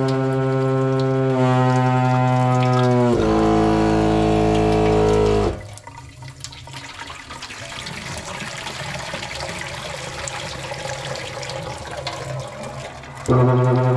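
Household water plumbing making a loud, horn-like drone as water runs through it. The pitch drops about one and a half seconds in and falls lower again about three seconds in. The drone cuts off about five and a half seconds in, leaving the hiss of running water, and comes back near the end.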